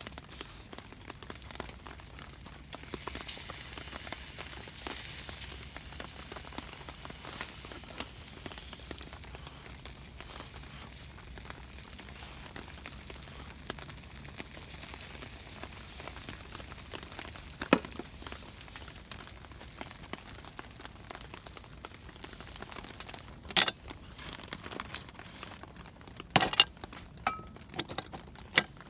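Food sizzling as it grills, a steady hiss that grows louder about three seconds in. A few sharp clicks or knocks come near the end.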